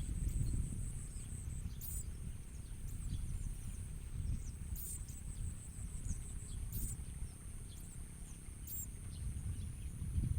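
Short, high-pitched bird calls repeat about every two seconds over a steady, high insect drone, with a low rumble of wind on the microphone.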